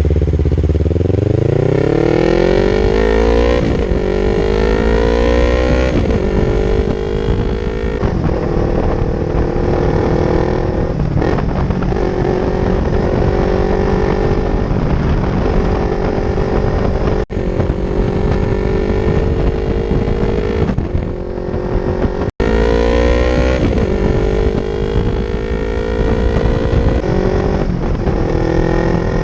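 Yamaha YZF-R3 parallel-twin engine through an Akrapovic exhaust, accelerating hard through the gears: the note climbs, dips at each upshift and climbs again, then holds a steadier pitch before another run up through the gears.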